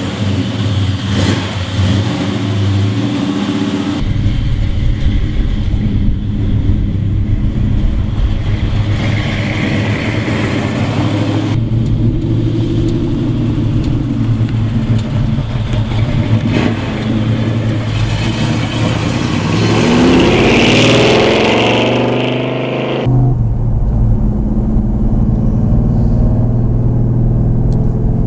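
1970 Chevelle's V8, running on a newly installed Holley Terminator EFI, heard over several cuts as it is driven off. It runs steadily, rises in pitch as it accelerates about twenty seconds in, then drones steadily from inside the cabin near the end.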